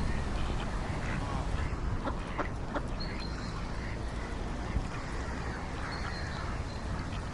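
Ducks quacking in short, scattered calls, with a few brief high chirps over a steady low background noise.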